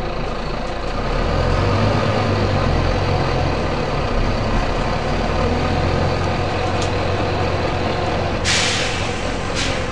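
Volvo B9TL double-deck bus's six-cylinder diesel engine running, its low note picking up about a second in. Near the end come two sharp hisses of compressed air from the bus's air system, a longer one and then a shorter one.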